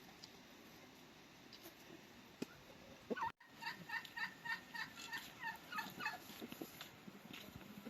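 Domestic fowl calling a fast run of short notes, about five a second, lasting a few seconds from near the middle.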